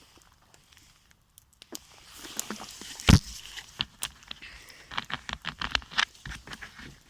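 Campfire crackling: irregular sharp snaps and clicks that come thicker toward the end, with one louder knock about three seconds in.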